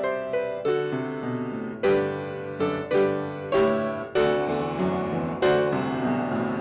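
Piano playing a slow prelude, struck chords and notes ringing and fading one after another, roughly one attack a second.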